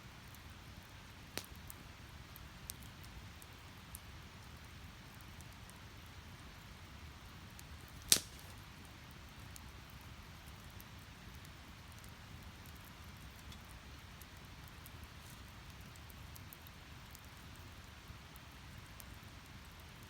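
Firewood burning in a steel fire pit: a low, steady rush of flames with a few scattered crackles, and one loud, sharp pop about eight seconds in.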